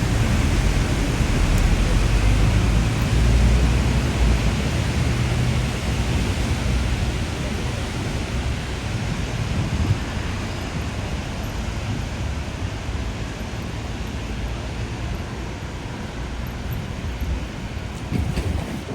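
Typhoon wind blowing hard and steadily, with a deep rumble of wind buffeting the microphone; it is strongest in the first five seconds or so, then eases slightly.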